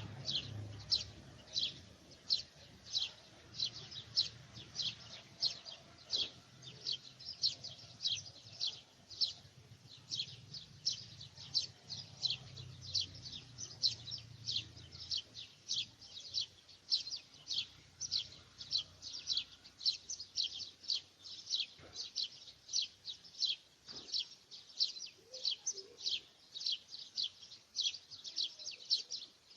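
Birds chirping: a long, unbroken run of short, high chirps, each sliding downward in pitch, about two to three a second.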